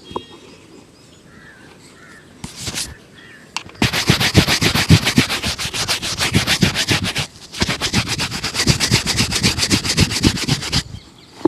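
Shoe-shine brush rubbed fast back and forth over a shoe: a quick, even scratching rhythm of several strokes a second. It starts about four seconds in and runs in two long bouts with a short pause between.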